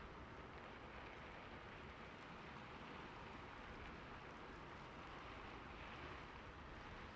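Rain falling on a roof: a faint, steady, even hiss with no pauses or separate impacts.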